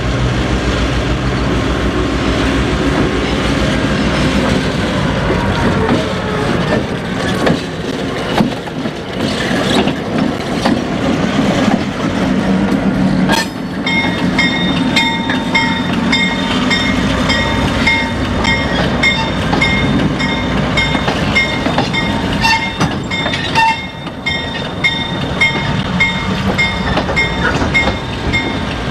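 A train passing: a diesel locomotive's engine rumble in the first half, then railroad cars rolling by with wheels clicking over the rail joints. From about halfway a high ringing pulses evenly, a bit more than once a second, over the rolling.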